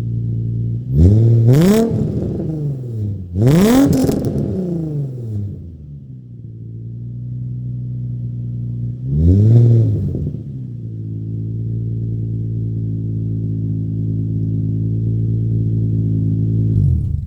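2003 Nissan 350Z's V6 running through a freshly fitted test-pipe, Y-pipe and single-exit exhaust with no catalytic converters, loud. It is revved up and let fall back three times, then idles steadily until the sound stops abruptly near the end.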